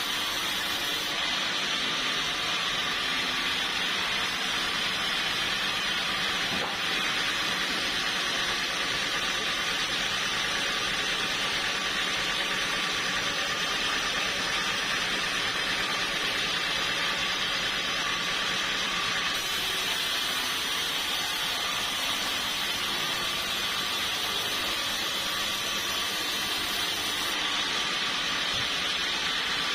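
Sawmill saw running steadily through old teak wood, a continuous even sawing noise.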